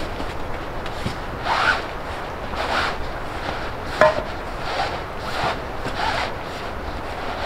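Footsteps crunching at a walking pace, several with a short squeak, and a sharp click about four seconds in.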